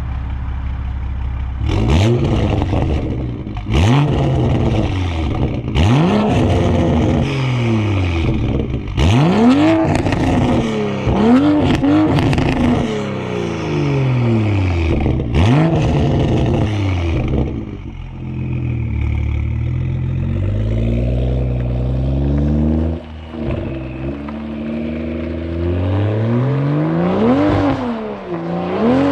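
Toyota Supra with a muffler delete and downpipe, its exhaust very loud, idling and then blipped hard over and over, about one rev every two seconds, with sharp cracks as the revs drop. After about 17 s come slower, gentler rises and falls, and one last sharp rev near the end.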